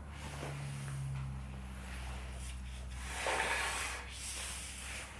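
A brief rubbing scrape about three seconds in, over a steady low hum.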